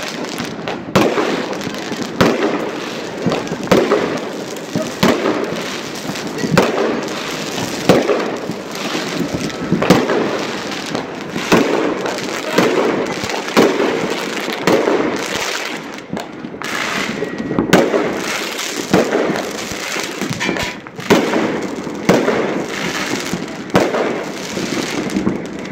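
Many fireworks going off close by and across the city: loud sharp bangs about every second or so over a continuous crackle of more distant bursts.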